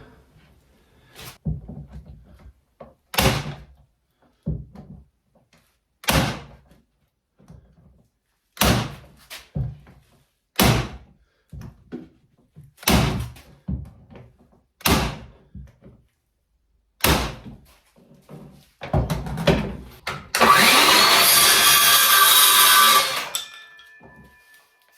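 A cheap tack gun firing tacks into wooden strips on a baseboard: a sharp shot about every two seconds, some followed by smaller knocks. Near the end a loud, harsh noise lasts about three seconds.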